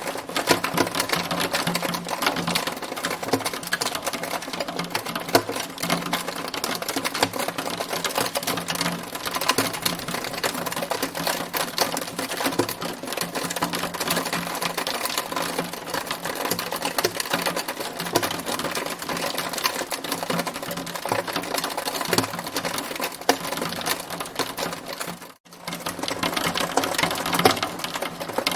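Hailstones pelting a hard surface in a dense, steady clatter of rapid ticks and small impacts, breaking off for a moment near the end.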